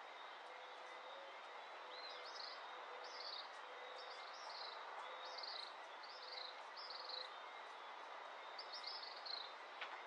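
A bird repeating short, falling chirps, about one a second, from about two seconds in to near the end, over a steady hiss of dawn ambience with faint insect tones.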